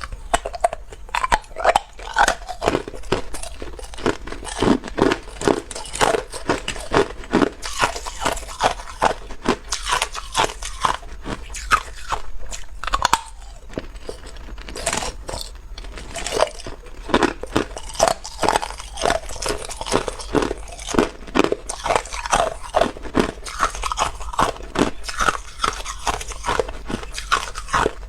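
Hard ice cubes being bitten and chewed: a continuous run of sharp, loud crunches, about two a second.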